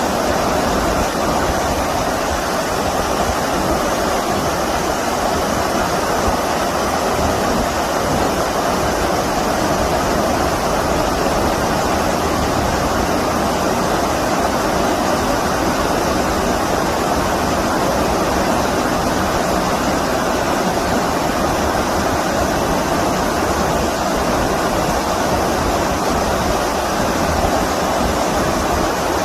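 Stream water rushing in a steady, even noise that does not let up.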